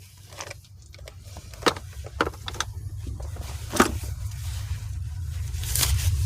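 Metal tools clicking and knocking a few separate times as a socket is worked on a bolt, over a low rumble that grows steadily louder.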